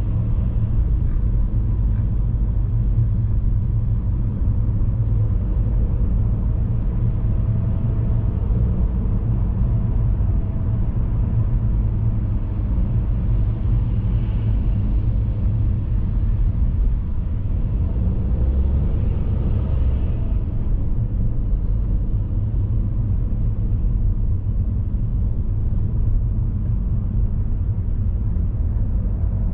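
Steady low rumble of a car on the move, road and engine noise with no breaks, swelling slightly in the middle.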